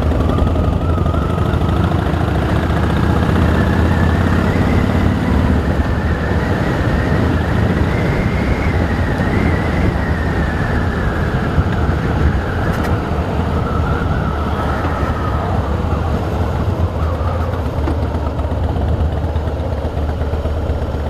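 Harley-Davidson Rocker C's V-twin engine running steadily while riding at low speed. A higher tone climbs slowly and falls away again through the middle of the stretch.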